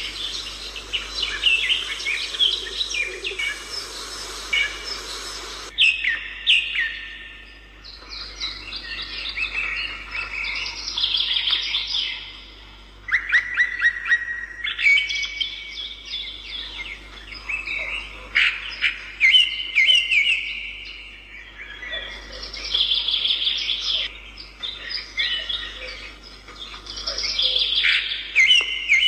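Songbirds chirping and singing without pause: quick trills, rapid chirps and held whistled notes, changing abruptly about six seconds in.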